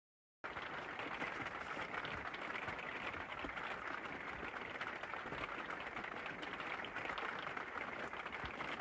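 Heavy rain pelting the roof of an Arctic Fox truck camper, a dense, even patter that begins abruptly about half a second in.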